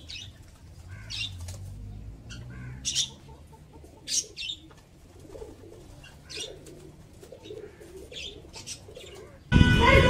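Birds chirping: short, high chirps at irregular intervals, one every second or so, over a faint low rumble.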